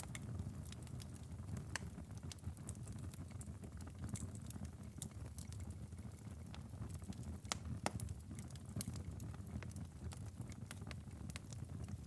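Wood fire burning in a fireplace, crackling: irregular sharp pops and snaps over a low, steady rumble of the flames.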